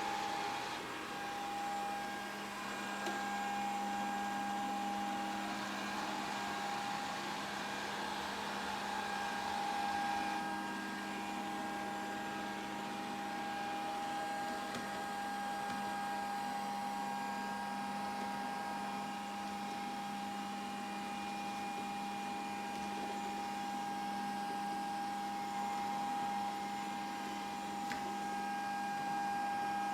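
Grundig VCR 2131 robot vacuum cleaner running: a steady motor and fan hum with a constant whine.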